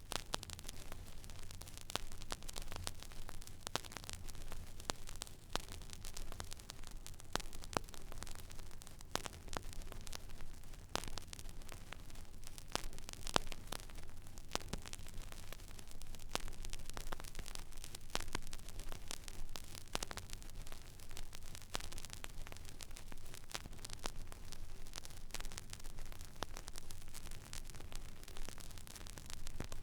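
Stylus tracking the empty groove of a vinyl record: steady surface hiss with frequent scattered clicks and pops over a low rumble.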